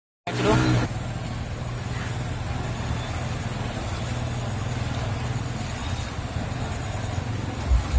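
Motor vehicle engine running steadily with a low hum amid street noise, after a short loud pitched sound at the very start. A couple of low thumps come near the end.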